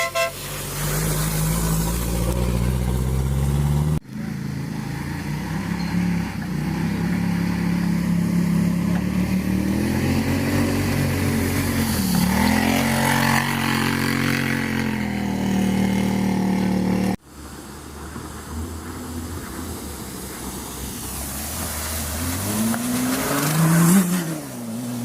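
Racing engines running hard, their pitch rising and falling as they accelerate and back off. The sound breaks off abruptly twice, about four and about seventeen seconds in, and picks up again.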